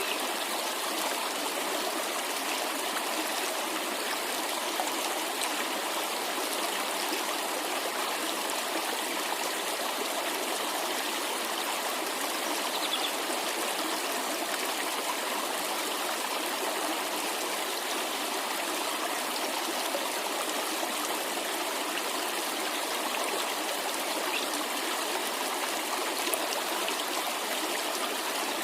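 Cascading water rushing steadily, an even, unbroken rush.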